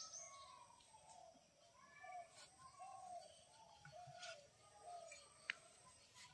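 Faint bird calls: a run of short notes, each rising and falling in pitch, several a second. A single sharp click about five and a half seconds in.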